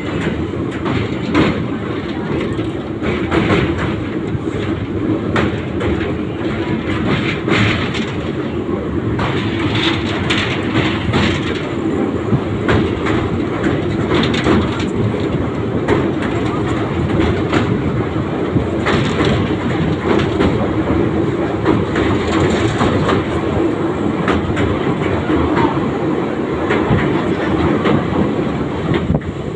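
Indian Railways passenger train running at speed across a steel girder bridge: a steady, loud rumble of wheels on rails, with frequent sharp clicks and clacks of the wheels over joints.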